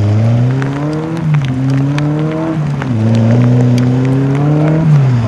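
Rally car engine accelerating hard through the gears. The pitch climbs and drops sharply at each upshift, three times.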